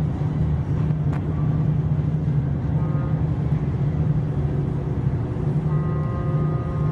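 Steady low mechanical rumble with a strong, even hum, typical of heavy engine machinery; faint steady tones come in near the end.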